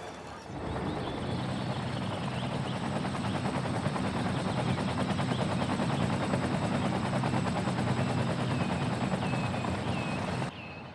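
An engine running steadily close by with a fast, even pulsing beat, cutting in sharply about half a second in and cutting off abruptly near the end.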